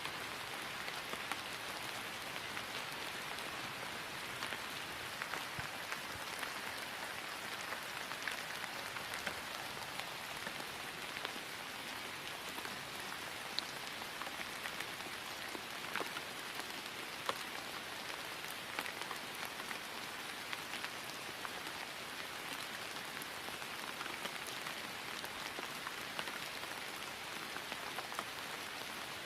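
Steady rain falling on grass, an even hiss scattered with small sharp drop ticks.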